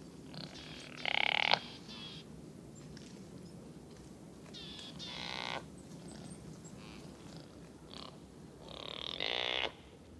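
Three short, light bleats from a rutting male mountain goat (chamois), each under a second long and spaced about four seconds apart.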